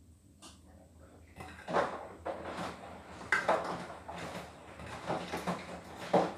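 Beko WTK104121W washing machine drum turning on a delicates wash: wet laundry and water sloshing and slapping inside the drum in irregular splashes, starting about a second and a half in after a quiet pause.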